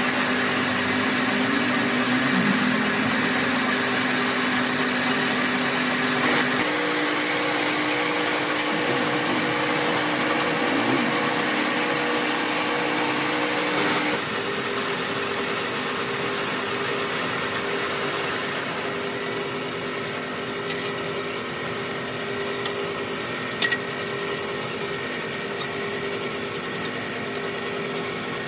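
A workshop power machine running steadily with a hum. The hum shifts pitch abruptly about a quarter of the way through and again about halfway. Two brief clicks come near the end.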